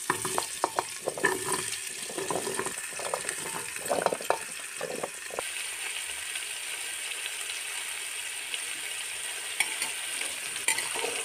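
Chopped black carrots dropping by hand into hot ghee in an aluminium pressure cooker: pieces clatter and knock for the first five seconds or so, then a steady sizzle as they start to fry. A spoon knocks among them near the end.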